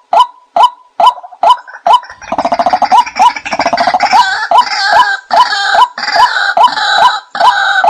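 Bird calls: a short, honking note repeated evenly about twice a second. About two seconds in, a harsh, rattling chatter joins it and keeps going.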